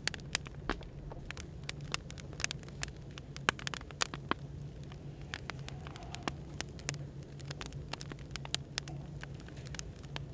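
Burning firewood crackling, with many sharp irregular pops and snaps, over a steady low hum of café background noise.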